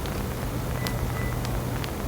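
Steady low hum of background noise, with a few faint ticks and a brief faint high thin note about a second in.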